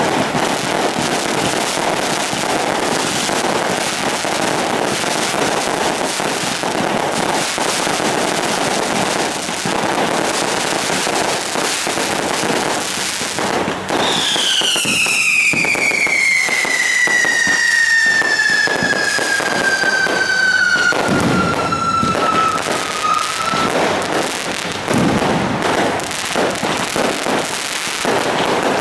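Fireworks and firecrackers crackling in a dense, continuous barrage. About halfway through, a long whistle with overtones sounds over the crackle for roughly nine seconds, falling steadily in pitch.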